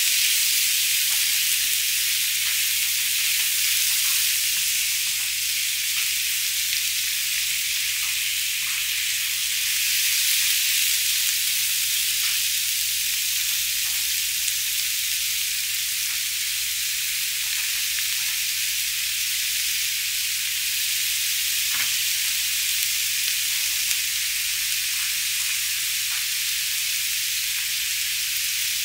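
Diced chicken breast, onion, green pepper and mushrooms sizzling steadily in olive oil in a frying pan, with a wooden spoon scraping and tapping the pan now and then.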